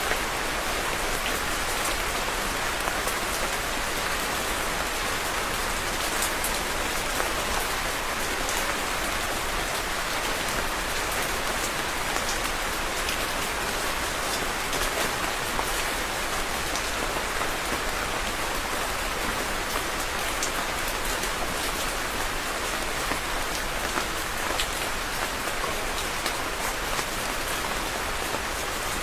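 Steady rain falling on a surface, an even hiss with many fine individual drop ticks.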